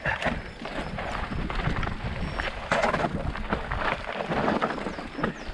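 Mountain bike rolling over a rough, rocky trail: tyre noise with irregular knocks and rattles, and wind on the microphone.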